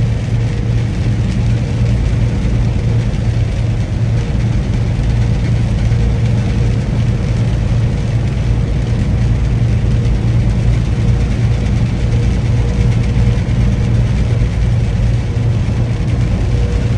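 Semi-truck's diesel engine and road noise heard from inside the cab while cruising on the highway, a steady low drone.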